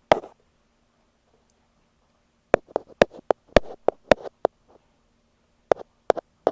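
Ear pick tapping directly on an earphone microphone: sharp, close-up taps. There is one tap at the start, a pause, then a quick uneven run of about a dozen taps, and a few spaced taps near the end.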